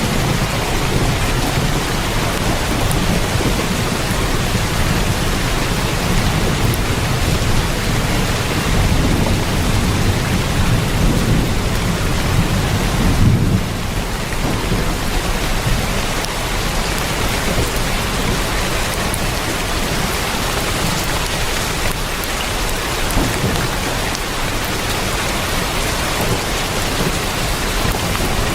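Heavy rain drumming steadily on a tin roof. A low rumble of thunder swells under it and cuts off about halfway through.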